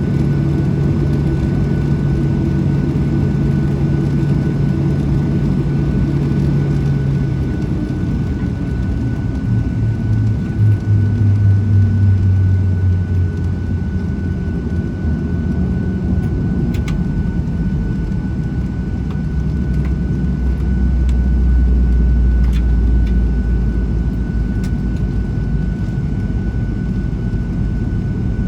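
Boeing 737-700 cabin noise on the ground after landing: a steady low rumble whose deep hum drops in pitch in steps, over a thin steady whine, with a few faint clicks late on.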